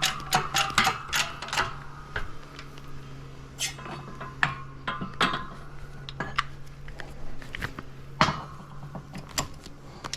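Rapid metal clicking for about the first second and a half, then scattered metal clinks and clunks as a Honda K-series manual transmission and its parts are worked by hand, over a steady low hum.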